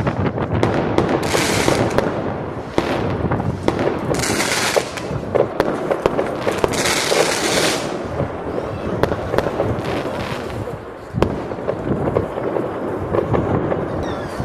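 Fireworks going off: many sharp bangs and crackles, with three hissing bursts of about a second each in the first half.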